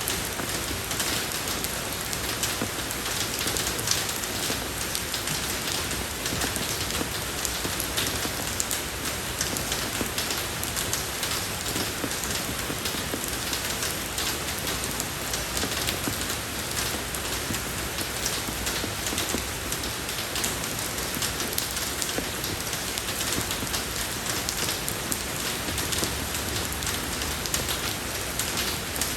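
Steady rain falling on a road surface, a dense even patter of many small drops with no letup.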